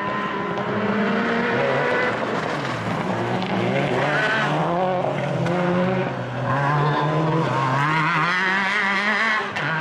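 Rally car engines revving hard, their pitch rising and falling with throttle and gear changes, with a wavering high squeal near the end.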